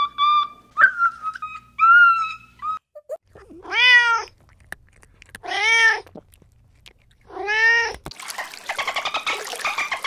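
A cat meowing three times, each meow under a second long and rising then falling in pitch, a second or so apart. Before them come a few short, higher calls. In the last two seconds there is a dense, rapid chatter of clicks and whistles.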